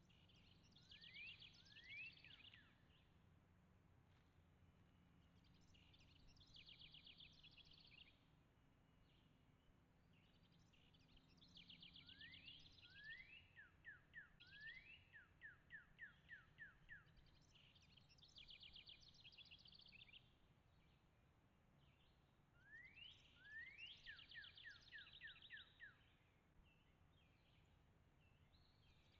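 A songbird singing faintly in repeated phrases a few seconds apart, each a fast trill with a run of quick rising notes, over a steady low background rumble.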